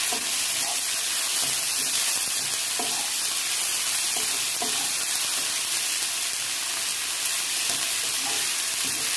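Sliced onions and ginger-garlic paste sizzling steadily in hot oil in a nonstick wok while a wooden spatula stirs them, with a few soft scrapes. The paste is being fried off with the onions until its raw smell is gone.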